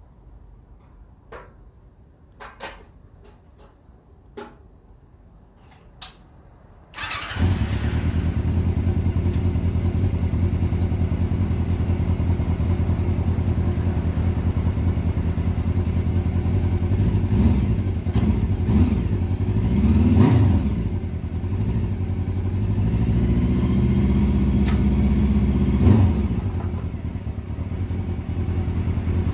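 A few light clicks, then about seven seconds in the Honda CB400 Four's air-cooled inline-four engine starts and runs on, idling with several short throttle blips and a longer raised rev near the end. This is the engine's first start after standing unused for a year.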